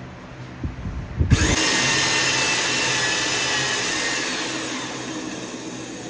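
A few low knocks, then a power tool starts suddenly about a second in and runs with a loud, harsh noise that slowly fades.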